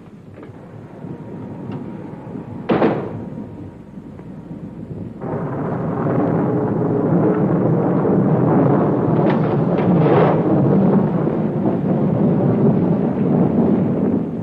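Thunder sound effect: a sharp crack about three seconds in, then a long heavy rumble from about five seconds in that cuts off suddenly at the end.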